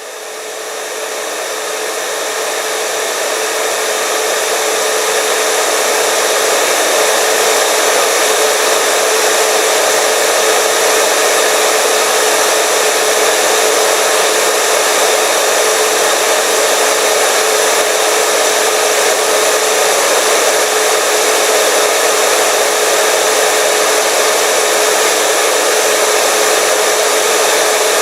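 Electric hair dryer running: a steady rushing hiss of air with a constant motor whine, fading up over the first few seconds and then holding level.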